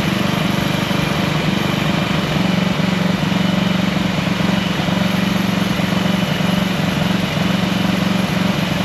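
Small gas engine of a Troy-Bilt pressure washer running steadily after a long no-start: it fires up once the plug has been changed and the carburetor jet cleaned.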